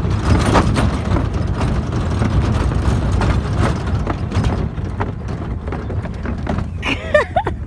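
Moving truck, a steady low engine and road rumble with scattered light ticks and knocks. Near the end come a few brief high whining calls that bend up and down.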